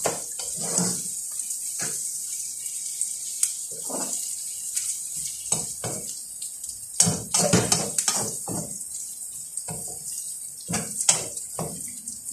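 Chicken and onions sizzling in a frying pan with a steady hiss, while a metal spatula scrapes and knocks against the pan in irregular stirring strokes, busiest about two-thirds of the way through.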